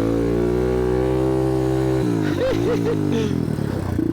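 1987 Yamaha TW200's single-cylinder four-stroke engine pulling at steady high revs as the bike rides onto a snow drift, then the throttle drops off suddenly about two seconds in and the revs rise and fall briefly a few times.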